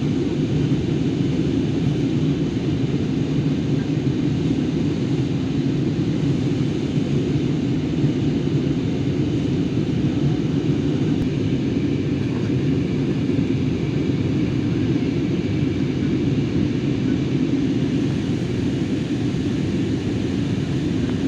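Airliner cabin noise: the engines and rushing air make a steady low rumble that does not rise or fall.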